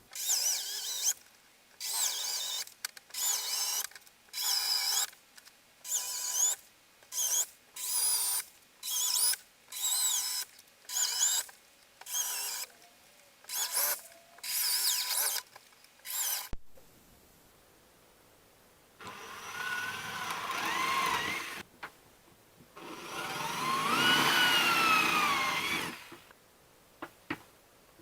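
Electric drill boring into wood in about a dozen short bursts, then, after a break, two longer runs with the motor pitch rising and falling as the trigger is eased.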